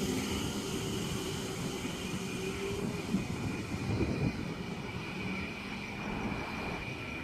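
Double-deck electric suburban train moving through the station, a steady rumble with a held electrical hum and a faint high whine. A lower tone in the hum stops about three seconds in.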